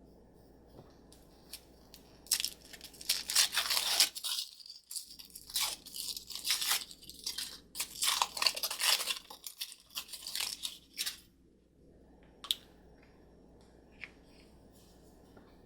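Packaging wrapper crinkling and tearing in irregular bursts as a small toy is unwrapped by hand, followed by a couple of single clicks near the end.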